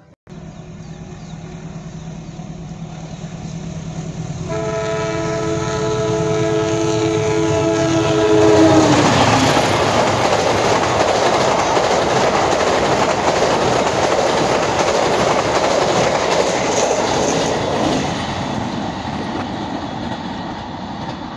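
A diesel-hauled passenger train approaching and passing at speed. The locomotive's air horn sounds one long chord of several notes for about four seconds, dropping in pitch as the locomotive goes by. Then the coaches rush past with loud, steady wheel and rail noise that eases off near the end.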